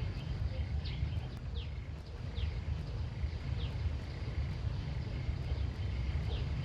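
Outdoor ambience: short falling chirps repeating roughly once a second over a steady low rumble and a faint, steady high hum.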